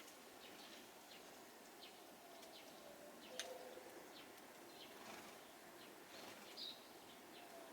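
Faint small-bird calls: scattered short, high chirps and tweets over a soft steady hiss, with one sharper tick about three and a half seconds in.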